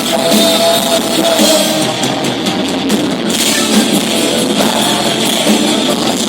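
Live rock band playing: distorted electric guitar over drum kit, loud and continuous, with no vocals prominent.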